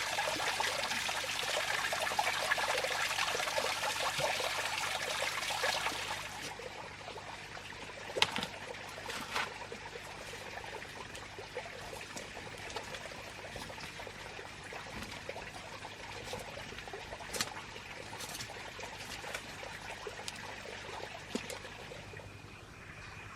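Water trickling steadily, stopping abruptly about six seconds in, followed by a few scattered light knocks and clicks.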